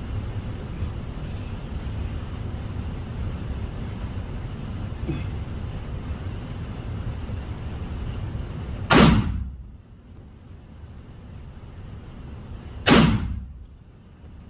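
Two gunshots about four seconds apart, each with a short echoing tail, over a steady low rumble.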